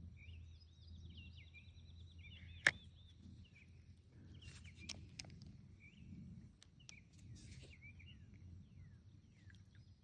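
Small birds chirping and trilling, with a sharp click about two and a half seconds in and a few fainter ticks around the middle, over a faint low rumble.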